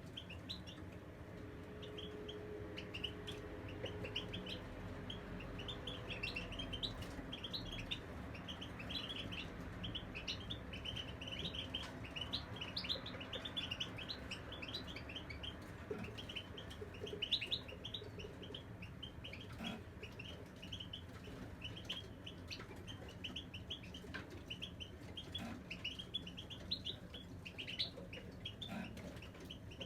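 European goldfinches chirping and twittering continuously, a dense run of quick high notes.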